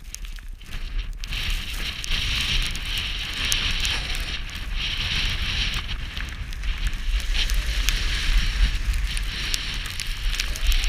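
Skis sliding and scraping over snow, a steady hiss with small crackles that sets in about a second in, over a low rumble of wind buffeting the microphone.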